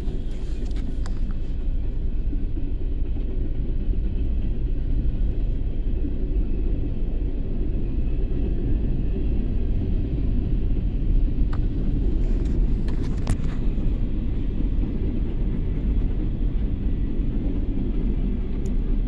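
Norfolk Southern freight train of open-top hopper cars rolling past: a steady low rumble of steel wheels on rail, with a few sharp clicks a little past halfway. Heard through a car window.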